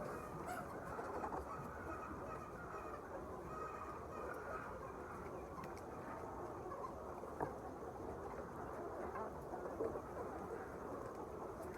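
A poultry flock: many chickens calling together in a dense, steady chatter, with a couple of brief clicks in the second half.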